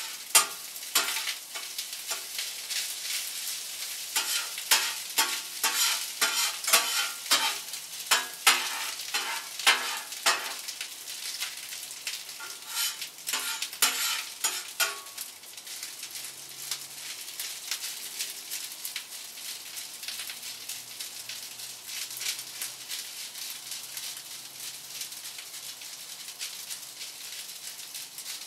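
Day-old rice with scrambled egg frying and sizzling in a hot pan, stirred with repeated scraping strokes for about the first half, then left sizzling more steadily with only occasional strokes.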